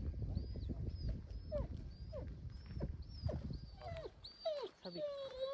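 A pet dog whining: a run of short high whimpers about one every half second, then a longer whine near the end that slides slowly down in pitch.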